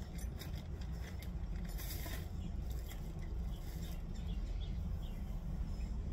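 Scattered light clicks and rustling of objects being handled, a little louder about two seconds in, over a steady low hum.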